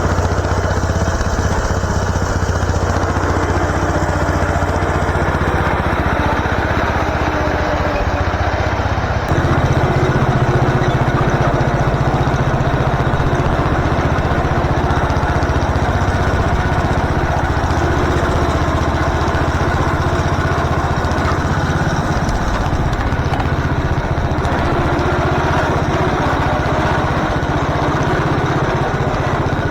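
MTD garden tractor's engine running steadily, its pitch stepping up and getting a little louder about nine seconds in as it speeds up.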